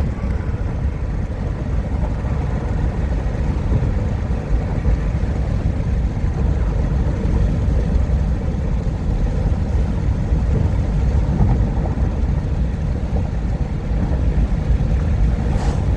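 Steady road and engine noise of a car cruising at highway speed, heard from inside the cabin: an even low rumble with no changes.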